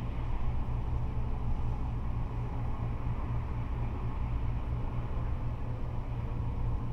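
Steady rumble of freeway traffic, cars and trucks running past without letup, with most of the sound deep and low.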